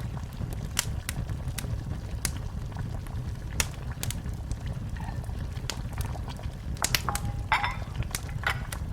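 Wood fire crackling in a fireplace: irregular sharp pops and snaps over a steady low rumble of the flames, with a brief hiss about seven and a half seconds in.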